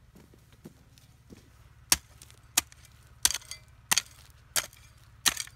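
A hand tool chopping with steady strokes: six sharp strikes about two-thirds of a second apart, starting about two seconds in.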